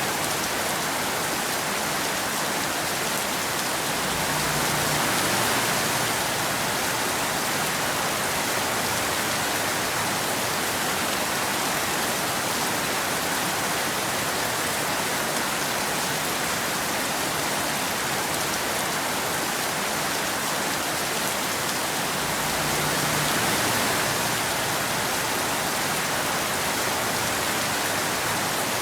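Steady rain falling on a road, an even dense hiss. It swells slightly twice, a few seconds in and again near the end, with a touch more low rumble.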